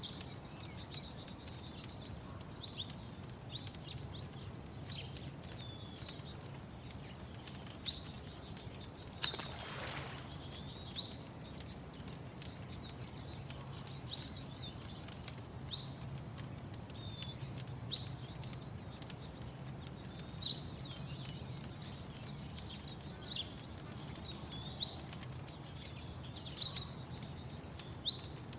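Small birds chirping in short calls every second or two over a steady low rumble, with faint scattered crackles of a wood fire. A brief rushing whoosh comes about nine seconds in.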